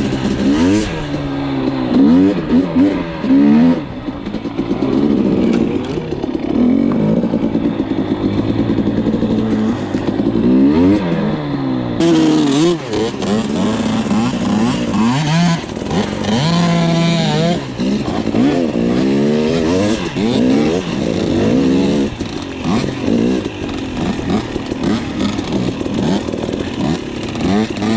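Dirt bike engine revving up and down over and over, its pitch rising and falling sharply with the throttle.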